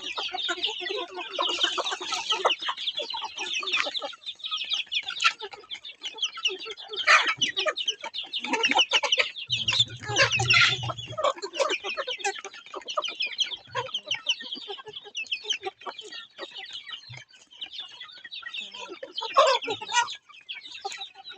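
Chickens clucking and squawking in a busy, agitated chatter, with louder flurries about seven, ten and nineteen seconds in.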